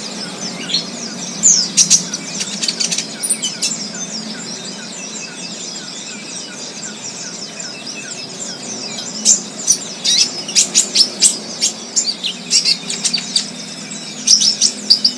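Wild birds chirping: flurries of quick, high, down-sliding chirps, sparse in the middle and busiest from about nine seconds in.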